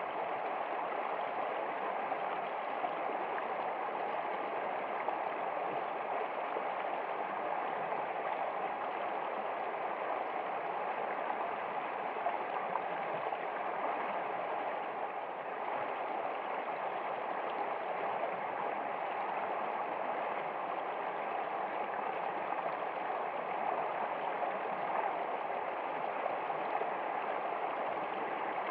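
Water in a stream flowing and gurgling steadily, an even rushing sound with no change over the whole stretch.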